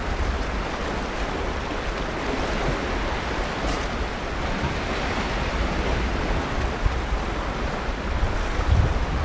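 Sea surf washing steadily onto the beach, with low wind buffeting the microphone at times, strongest near the end.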